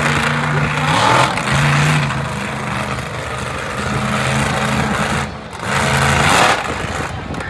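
Monster truck's big-block engine running hard at high revs, with surges in loudness about a second in and again near the end.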